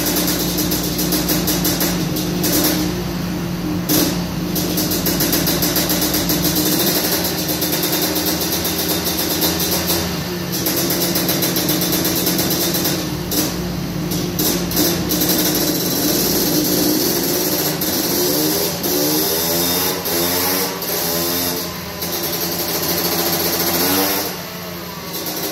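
Honda CR500 two-stroke single-cylinder engine running on a chassis dyno, holding a steady speed. In the last several seconds it is revved up and down repeatedly.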